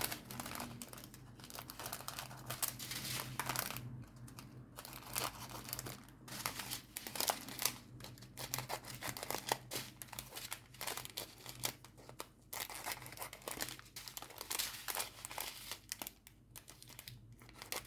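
Small plastic bags of diamond-painting crystals crinkling in irregular rustles as they are handled and separated.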